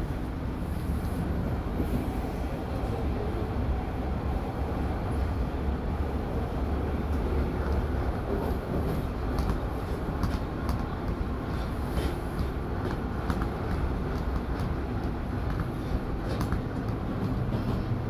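Toronto subway train running between stations, heard from inside the car: a steady low rumble with faint scattered clicks from the wheels and track.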